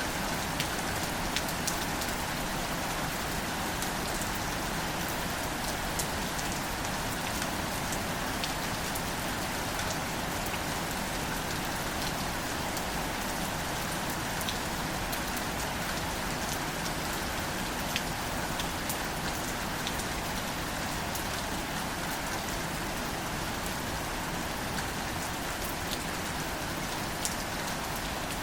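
Steady light rain falling on leaves and plants, an even hiss with scattered close drop taps.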